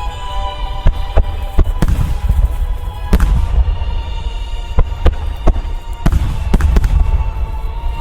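Large aerial firework shells bursting: about a dozen sharp bangs spread across the few seconds, over a deep rolling rumble. Music for the show plays underneath.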